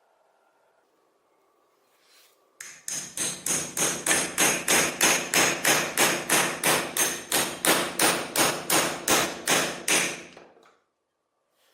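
Hammer striking metal in a steady run of about three blows a second, each blow ringing. It starts about two and a half seconds in and stops shortly before the end.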